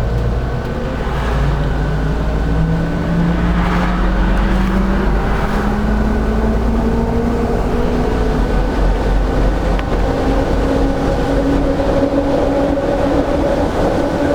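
Inside a moving LiAZ-5292.65 diesel bus: the engine and drivetrain drone under steady road noise, with several tones climbing slowly as the bus gathers speed.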